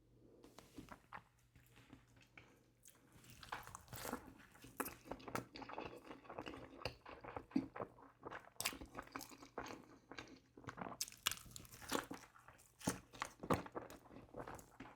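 Close-miked eating of McDonald's food: chewing and crunching with wet mouth clicks, sparse at first and busier from about four seconds in.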